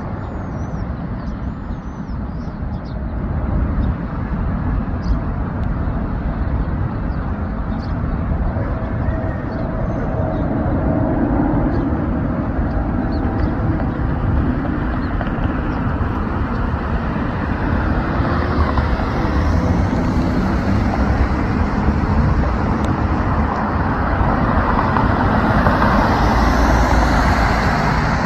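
Airbus A380 jet on landing approach: a steady, noisy engine rumble that grows louder over the second half, with a rising hiss and sliding tones as it passes, over a background of road traffic.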